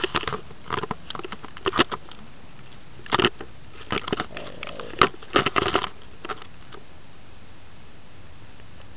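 Mazda RX-8's two-rotor Wankel engine blipped several times toward 4,000 to 6,000 rpm through a custom one-in, two-out 9-inch glasspack exhaust. It comes through as loud, irregular bursts in two clusters over about six seconds, then dies back to a low steady background.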